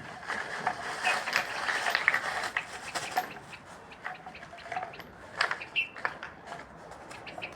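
Water running and splashing, heavy for the first three seconds or so, then thinning to scattered drips and splashes.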